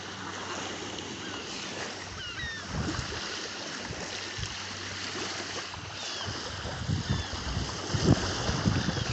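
Small waves washing on a beach, with wind gusting on the microphone, stronger in the second half. Faint short falling calls from a flock of water birds come now and then.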